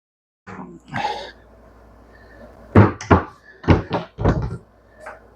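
A short scrape, then a quick run of five knocks and thumps in two groups, like hard objects being handled and set down on a workbench.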